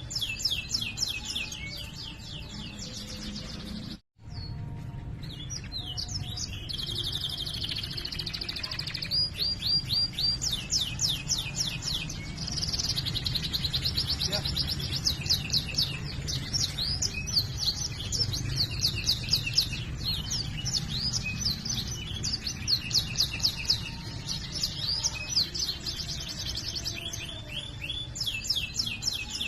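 Domestic canary in full song, running fast rolling trills and rapid repeated chirping notes, with a brief dropout about four seconds in.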